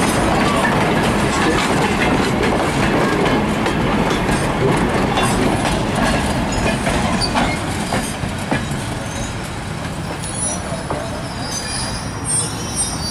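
An open-air railroad passenger car and a caboose rolling past close by on steel wheels, with knocks over the rail joints. The sound eases off from about two-thirds of the way through as the caboose moves away, and thin, high wheel squeals come near the end.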